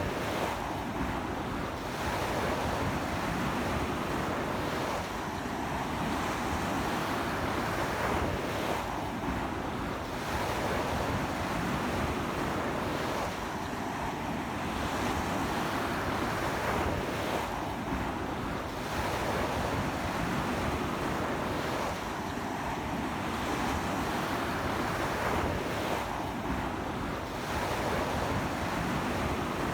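Sea surf washing onto a beach, a steady rush of breaking waves that swells about every four seconds, with strong sea wind buffeting the microphone.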